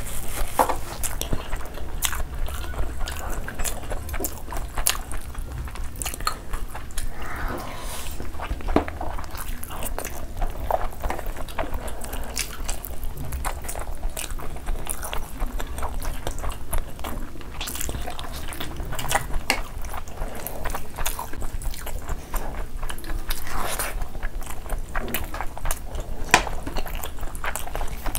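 Close-miked eating sounds of two people chewing mutton curry and rice: wet chewing with many short mouth clicks and smacks.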